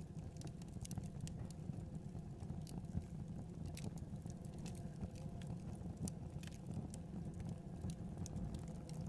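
Wood fire in a fireplace crackling: irregular sharp pops over a steady low rumble, with one louder pop about three seconds in.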